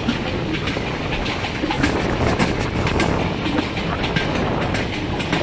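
Passenger train coach running at speed, heard from just outside its side: steel wheels clattering over the rail joints in quick, uneven clicks over a steady rumble.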